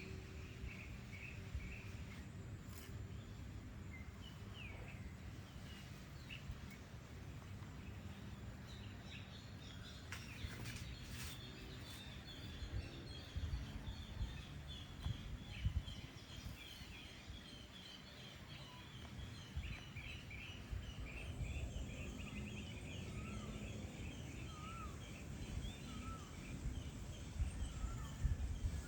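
Evening outdoor ambience of many small birds chirping and twittering, with a few short rising whistles near the end, over a steady low rumble.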